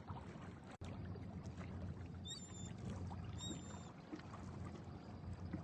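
Steady sea-shore wind and water noise, with two short high calls about a second apart near the middle: gulls crying.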